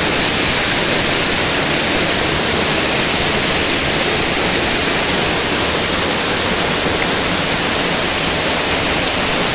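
Waterfall crashing: a loud, steady rush of falling water, heard from right behind the falling curtain.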